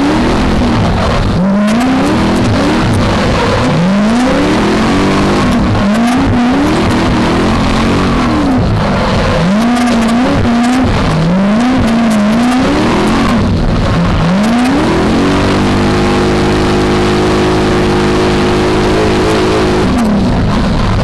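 V8 engine of a BMW E30 drift car under hard throttle, its revs rising and falling again and again as the driver works the throttle through the drift. About fifteen seconds in it holds one steady high pitch for about five seconds, then drops off near the end.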